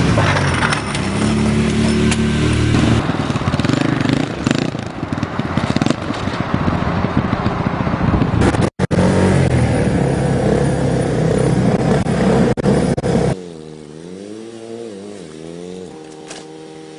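Motorcycle engines running loud under heavy noise, with a brief cut-out about nine seconds in. From about thirteen seconds a quieter engine revs up and down.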